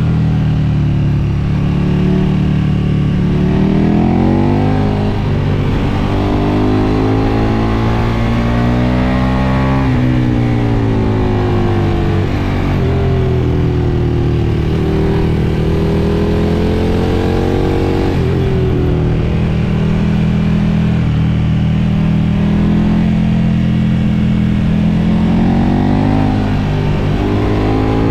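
KTM 1290 Super Duke's V-twin engine with a Mivv MK3 carbon exhaust, pulling hard on the road, its pitch climbing and dropping away several times. Wind rushes over the tank-mounted microphone throughout.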